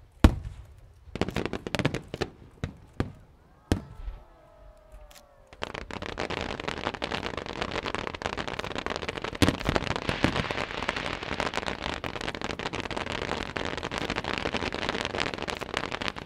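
Fireworks going off: several separate loud bangs in the first four seconds, then a whistling glide around four to five seconds in. From about five and a half seconds on comes a dense, continuous crackling barrage of many rapid pops.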